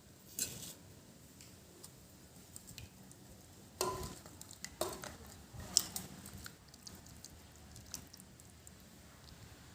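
Someone eating: faint soft squishes and mouth sounds, broken by a few short clicks and smacks, the sharpest a little before the middle.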